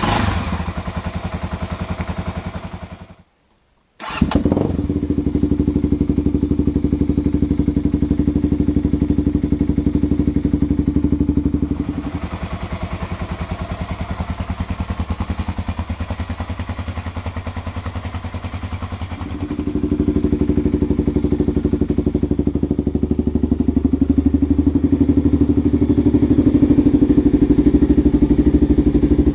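Kawasaki KLX dual-sport motorcycle's single-cylinder engine idling through an aftermarket exhaust with the silencer removed, a steady run of exhaust pulses. It stops about three seconds in, is restarted about a second later and idles on, dropping in level near the middle and getting louder again for the last third.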